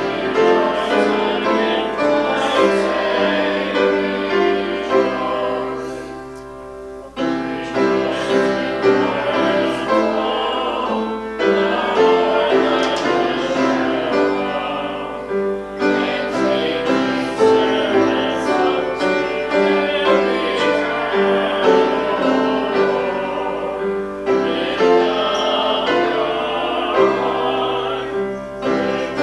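Music: a solo singing voice with piano accompaniment, in long held phrases with a brief break about seven seconds in.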